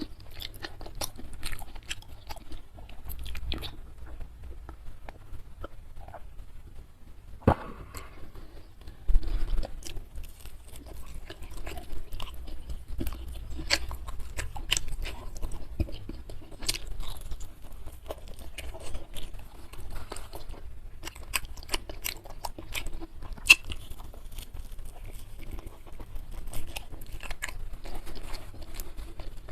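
Close-miked chewing and crunching of food, a steady run of crackly bites and wet mouth clicks, with a few louder crunches now and then.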